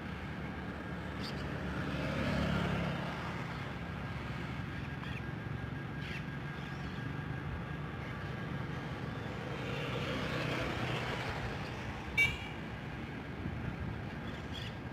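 Heavy trucks passing on the highway. The engine and tyre drone swells as one goes by about two seconds in and again around ten seconds. A brief, sharp, high-pitched toot sounds near the end.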